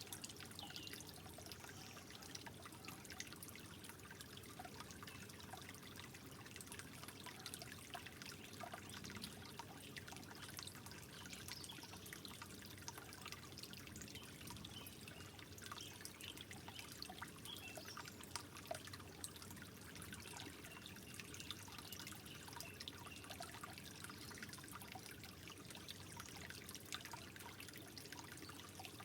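Soft water trickling steadily, with many small drips and plinks scattered through it.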